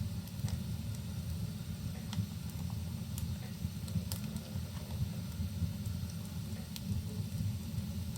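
Wood fire crackling in a fireplace: sparse sharp pops scattered through a steady low rumbling noise, with rain ambience mixed in.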